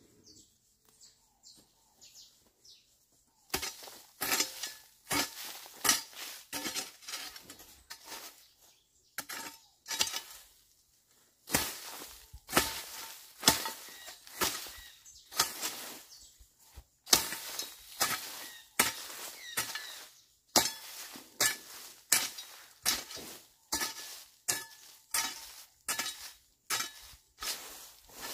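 Metal hoe chopping into weedy ground, a steady series of clinking strokes about one a second, with a couple of short pauses.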